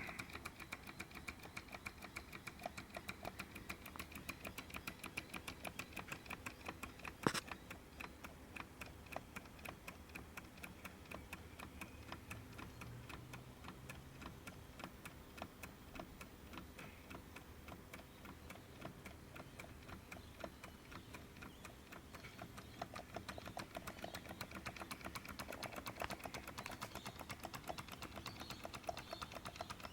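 Mamod SP6 miniature stationary steam engine still running with a faint, rapid, even ticking, working on the boiler's remaining steam pressure after the burner has been shut off. One sharper click about seven seconds in.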